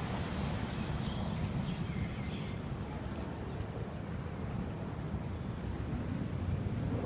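Outdoor background noise: a steady low rumble, with a few short bird chirps in the first couple of seconds.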